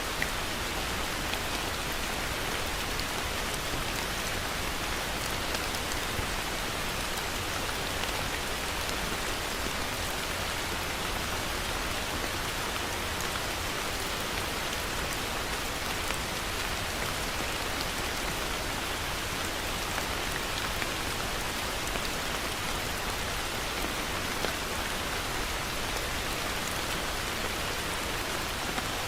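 Heavy rain falling steadily on a surface, an even hiss with occasional faint ticks of single drops.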